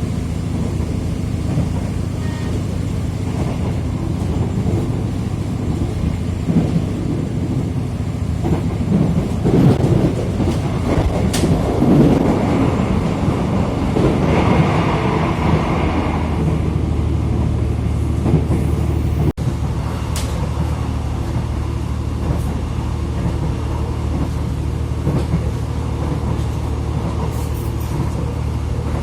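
Airport rail link train running, heard as a steady low rumble of the ride. About a third of the way in comes a louder stretch of clattering and rushing for several seconds, and later a momentary dropout in the sound.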